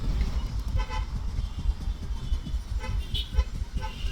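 Street traffic: a low rumble with short vehicle-horn toots, one about a second in and several near the end.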